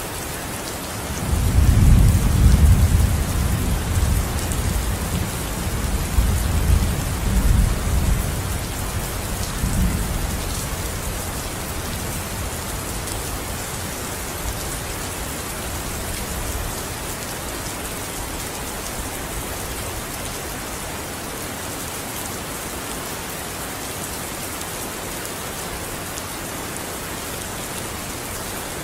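Steady rain, with a low roll of thunder that rumbles from about a second in and fades out by about ten seconds.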